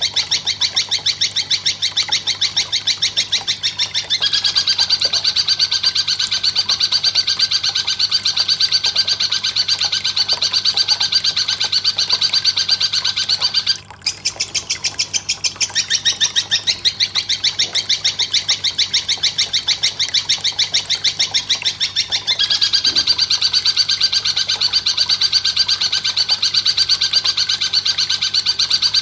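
Fast, evenly repeated high-pitched chirps, looped from a bird-song training recording. The pattern shifts a few times and breaks off for a moment about halfway through.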